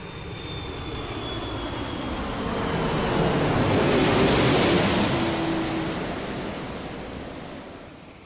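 Jet airliner passing by, the Boeing 787 Dreamliner's engine noise swelling to a peak about halfway and then fading away, its whining tones sliding slightly down in pitch as it goes past.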